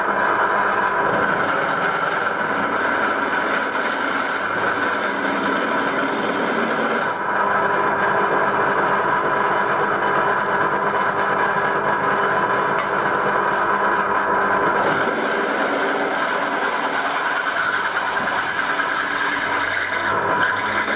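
A small electric power tool running steadily. Its higher whine drops away about a third of the way through and returns near two thirds.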